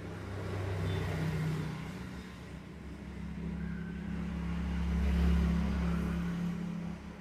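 A motor vehicle's engine running with a low hum, growing louder about a second in and again around five seconds before easing off.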